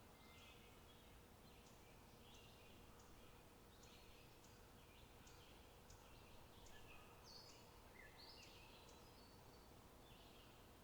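Faint chirping of small birds: many short calls in quick succession, over a low steady background noise and a faint steady hum.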